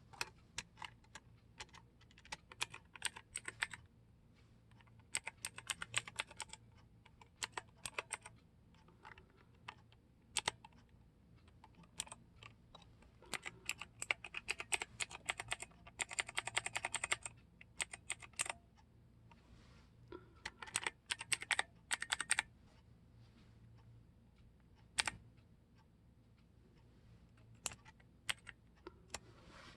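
Clicky blue-switch mechanical keyboard keys being pressed, in irregular bursts of rapid clicking with single presses in between, the longest fast run about halfway through.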